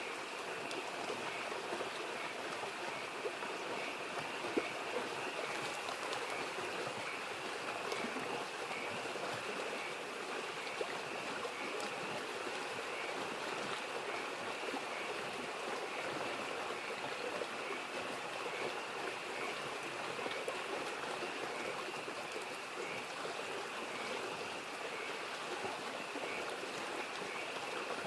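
Mountain stream babbling steadily under a continuous chorus of frogs calling in repeated short notes, with a few sharp crackles from a wood campfire.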